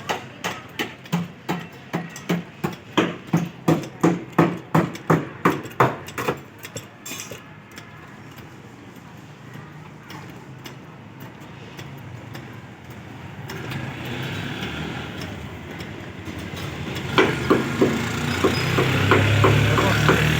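Hammer blows on metal, about two a second for some six seconds, as part of setting a car door that won't close. In the second half an engine hum grows louder, with a few more quick knocks.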